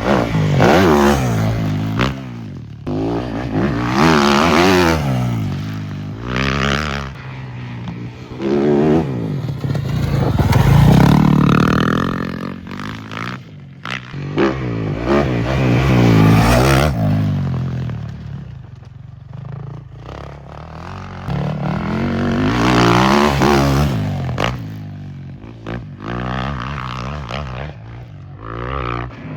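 Dirt bike engines revving hard and dropping off again and again, pitch climbing and falling through the gears, growing louder and fading several times as bikes pass, with scraping and clattering mixed in.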